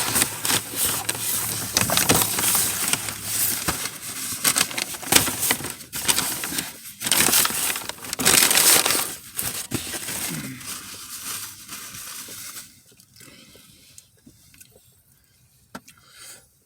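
Paper fast-food bag and wrappers rustling and crinkling close to the microphone, loud and uneven, dying down to faint scattered handling sounds about twelve seconds in.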